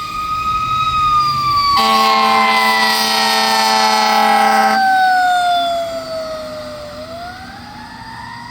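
2016 E-One Cyclone II fire engine's siren wailing, its pitch falling slowly for about seven seconds and then starting to rise again. An air horn blast of about three seconds sounds over it about two seconds in and is the loudest part.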